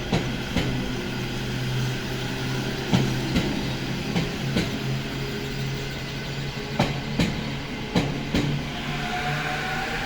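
E231-series electric train pulling out slowly and gathering speed, over a steady low hum. Its wheels click over a rail joint in pairs, a couple of seconds apart at first and closer together later. Near the end the traction inverter's whine starts rising in pitch.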